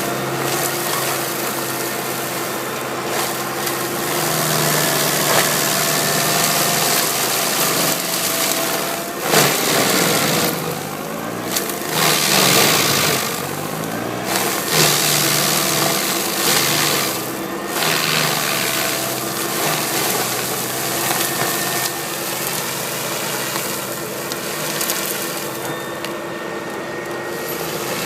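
Lamborghini tractor's engine running under load while its mulcher shreds oil palm material. It makes a continuous grinding, crushing noise over the engine, and the load swells and eases several times.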